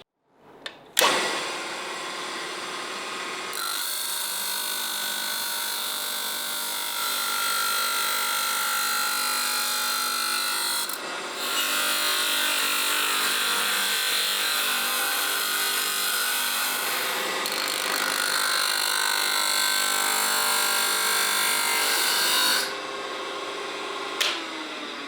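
Electric power tool running steadily under load, stopping briefly about halfway through and then running again until shortly before the end, when a single click follows.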